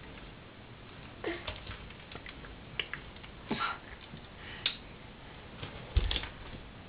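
A pet moving about a vacuum cleaner: scattered light clicks and scrapes, with a louder knock about six seconds in. No vacuum motor is running.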